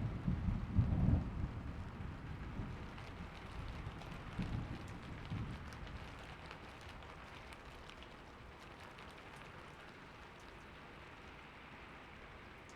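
Thunderstorm: steady rain falling, with thunder rumbling loudly in the first second or two and again more softly about four to five seconds in, then dying away to leave only the rain.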